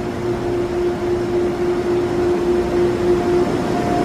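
Steady machinery hum of a train standing at the platform, its idling equipment giving a constant droning tone over a low rumble; the tone drops out about three and a half seconds in.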